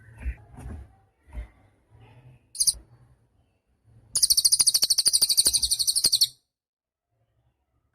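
Cililin songbird calling: a brief very high chirp, then a loud, very high, rapid trill of about a dozen notes a second lasting about two seconds. Soft low knocks come before the trill.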